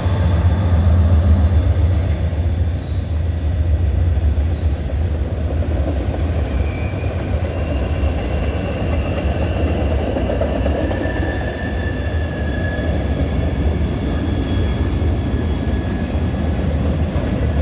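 Freight cars of a long Norfolk Southern manifest train rolling past: a steady, heavy rumble of steel wheels on rail. Faint, thin high-pitched wheel squeals come and go over it.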